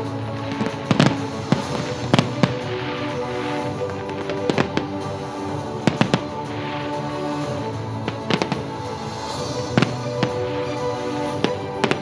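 Fireworks display: sharp, irregular bangs of shells bursting, often in quick pairs or triples, about one to two a second, over steady music.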